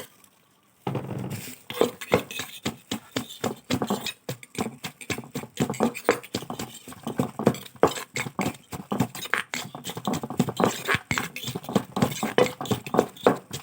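A pestle pounding som tam in a mortar: rapid, rhythmic knocks, a few each second, starting about a second in.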